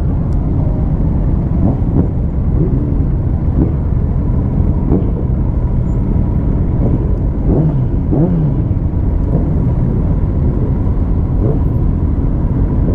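Motorcycle engines running in a large group of bikes: a steady low rumble, with a few short rises and falls in pitch about two thirds of the way in.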